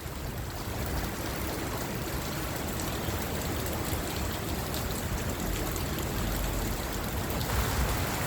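Heavy monsoon rain pouring steadily, growing louder near the end, with a low rumble swelling about five and a half seconds in.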